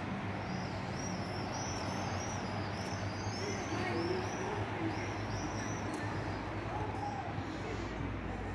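A small bird calling: a long run of quick, high, arched chirps, about three a second, with a short break midway, over a steady low hum.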